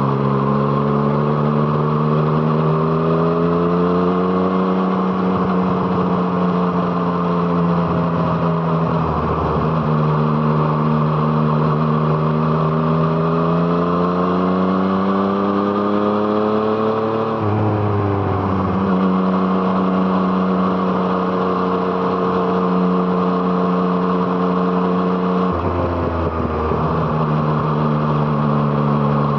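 2017 Yamaha MT-09's 847 cc inline-three engine through an Arrow Thunder exhaust, riding under load. The engine pitch climbs steadily as it accelerates, drops abruptly twice, about 17 and 25 seconds in, then holds steady or climbs again.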